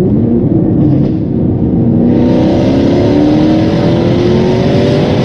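Range Rover L322's supercharged 5.0-litre V8, with a free-flowing aftermarket exhaust, accelerating. Its note climbs steadily in pitch, and a rushing noise joins it about two seconds in.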